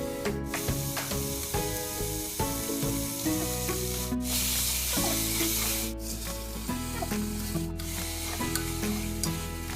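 Food sizzling as it fries in a pan, a steady hiss that grows louder for about two seconds near the middle. Instrumental background music plays over it.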